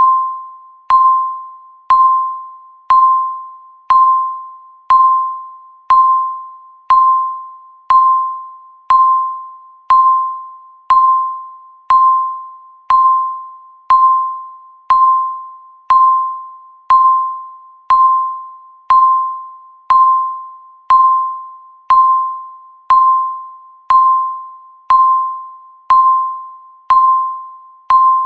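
Countdown timer's electronic beep sounding once every second: a short mid-pitched ding that starts sharply and fades away, repeating evenly, each one marking a second counted down.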